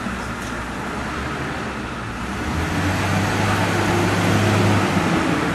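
Tow truck engine running steadily under load, getting somewhat louder with a deeper hum about halfway through.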